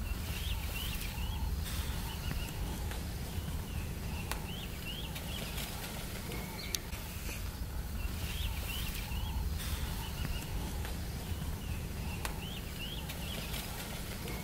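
A bird singing a short phrase of quick rising-and-falling chirps, repeated about every four seconds, over a low steady rumble.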